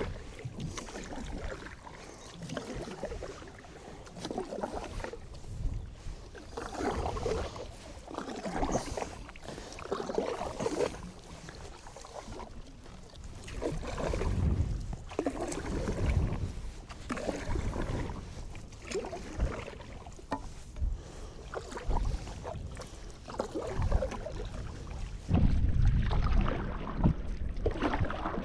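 Canoe paddle strokes pulling through lake water, one about every second or two.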